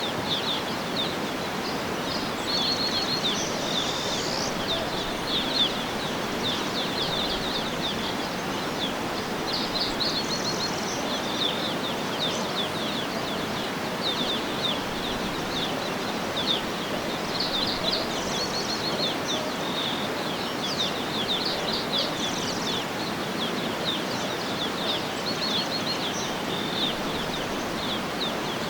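Outdoor nature ambience: small birds chirping in quick runs of short, high notes again and again, over a steady, even rushing noise.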